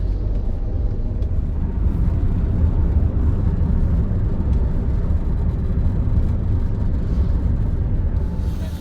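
Steady low rumble of a car driving, heard from inside the cabin, with no distinct events.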